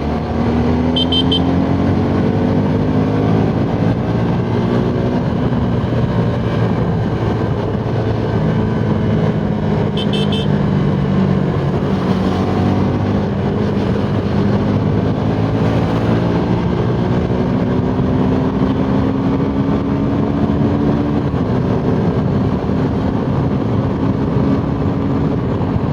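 Suzuki Gixxer SF 250's single-cylinder engine pulling hard at high speed, its pitch climbing slowly and dropping back at gear changes, over steady wind and road rush. Two brief high beeps sound, about a second in and about ten seconds in.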